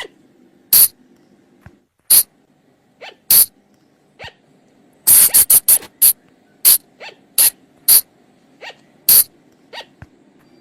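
Sunda colugo (flying lemur) calls: short, sharp, high-pitched squeaks, repeated irregularly about a second apart, some loud and some faint, with a quick run of five or six about halfway through.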